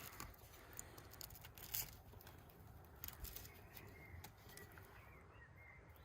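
Near silence with a few faint, light taps. About halfway through, faint bird chirps join in.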